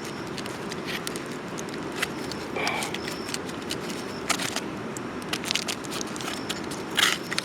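Aluminium foil crinkling and crackling in short irregular bursts as a foil-wrapped packet of food, just baked in campfire embers, is opened by hand.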